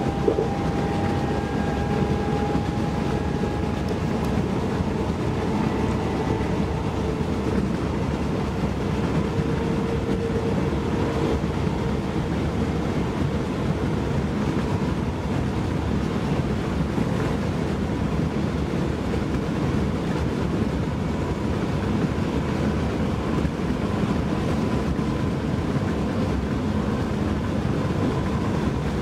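Class 323 electric multiple unit heard from inside the passenger saloon while running at speed: a steady rumble of wheels on rail, with a faint whine over it.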